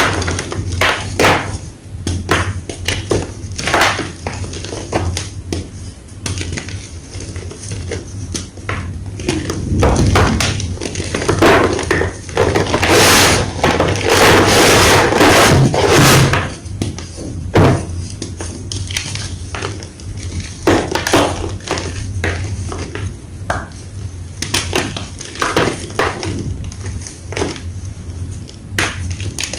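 White gym chalk being crunched and crushed: a long run of irregular, sharp crunches, coming thickest and loudest around the middle.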